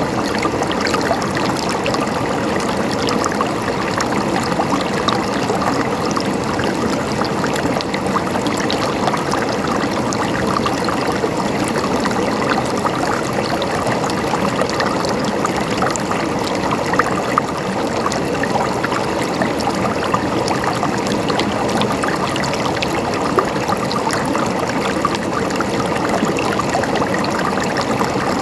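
Stream water flowing and trickling steadily over rocks.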